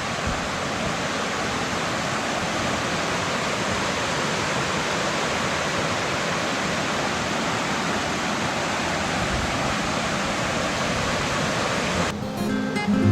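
Waterfall: a steady, even rush of falling water. It cuts off suddenly near the end, where acoustic guitar music begins.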